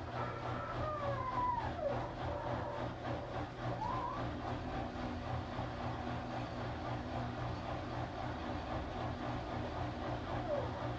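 Washing machine running with a steady low hum and churning noise. A few short squeaky sliding sounds occur about a second in, around four seconds in, and near the end.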